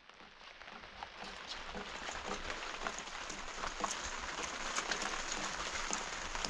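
Rain falling and pattering steadily, many small drops ticking, swelling over the first two seconds.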